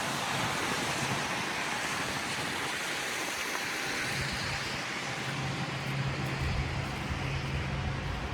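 City street traffic: a steady hiss of passing vehicles, with a low engine hum coming in about halfway through.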